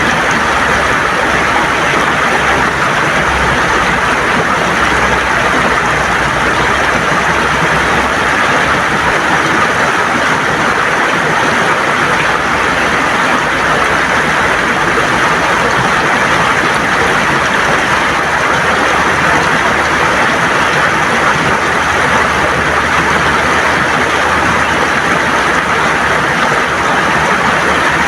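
River water gurgling and rushing over stones, a steady, even rush with no breaks.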